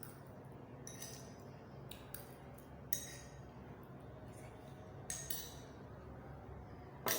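Tableware clinking during a meal: several short, sharp clinks spaced a couple of seconds apart, the loudest near the end, over a low steady room hum.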